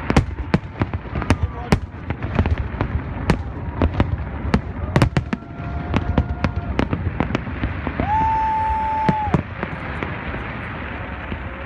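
Aerial fireworks going off in quick succession: a rapid, irregular string of sharp bangs and pops, thinning out in the last couple of seconds. About two thirds of the way through, a steady high whistle-like tone sounds for just over a second.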